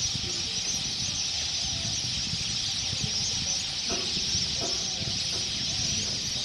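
A large flock of birds calling all at once, a dense continuous chorus of high chirps and squeaks, with a few lower calls about four and five seconds in.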